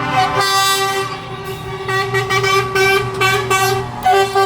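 Truck horns sounding loudly, several at once: one long held tone with other horn blasts starting and stopping over it, and a low engine hum underneath.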